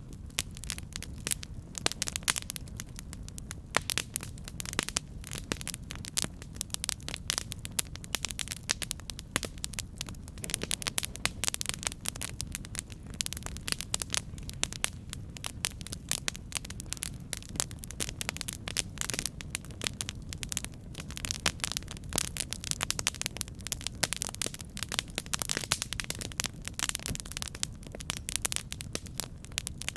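Campfire burning: wood crackling and popping in a dense, irregular stream of sharp snaps over a steady low rumble of the flames.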